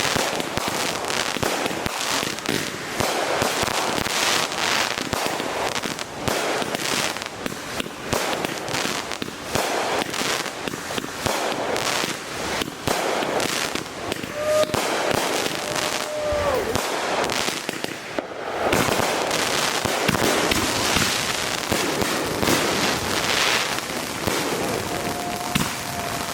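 Consumer fireworks going off in a dense, continuous barrage of rapid pops, crackles and bangs, with hardly a gap, except a brief lull a little past two-thirds of the way through.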